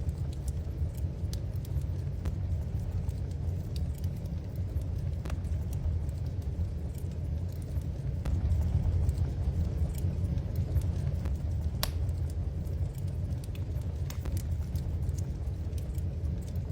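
Wood fire in a fireplace crackling, with sparse sharp pops at irregular intervals over a steady low rumble.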